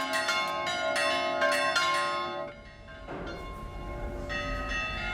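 Greek Orthodox church bells tolling, several strikes in quick succession with long ringing overtones. The ringing dips about two and a half seconds in, then picks up again. It is the call summoning the community to the Easter service.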